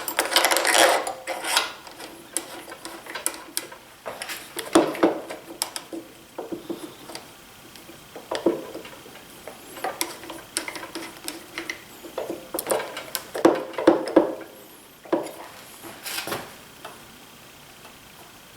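Scattered, irregular metallic clinks and taps of hand tools and screws against the planer's metal parts as screws are started, with pauses between clusters of knocks and a quieter spell near the end.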